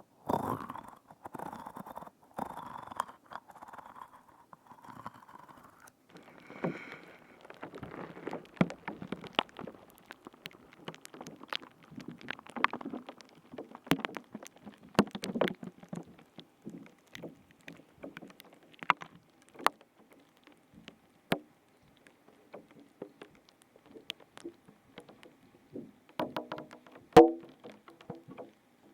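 Close-miked ASMR trigger sounds: irregular squishing with many sharp crackling clicks and pops, and a sharper cluster of pops with one loud click near the end.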